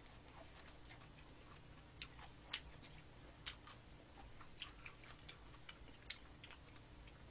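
Faint chewing of fried chicken: irregular small mouth clicks and crunches, about a dozen scattered ticks, the loudest about two and a half seconds in.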